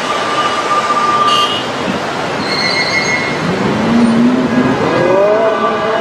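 Street traffic noise, with an engine note rising steadily in pitch over about two seconds around the middle as a vehicle speeds up.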